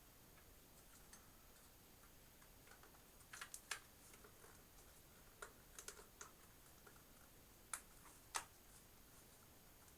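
Light, scattered clicks and taps of a plastic toolless hard-drive caddy being handled and fitted to a drive, coming in small clusters a few seconds apart over faint room tone.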